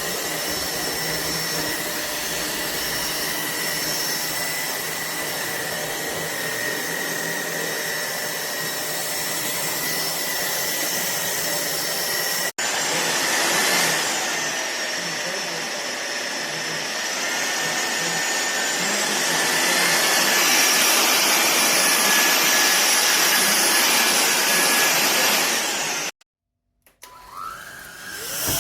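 SunSare 600 W cordless stick vacuum cleaner running: a steady suction rush with a high motor whine. In the second half the whine shifts in pitch, and the sound cuts off abruptly near the end.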